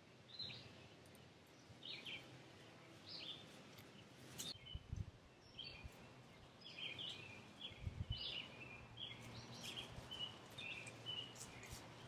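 Faint songbird chirps repeating, about one a second at first and coming more often in the second half. Two dull low thumps land about five and eight seconds in.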